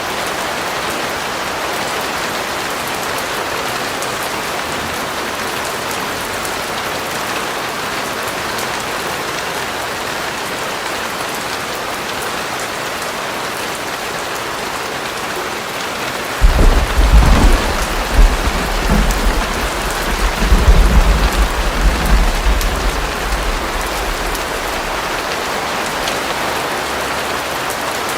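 Steady rain falling in an even hiss. About halfway through, a loud low rumble of thunder breaks in suddenly, rolls on for several seconds and fades back under the rain.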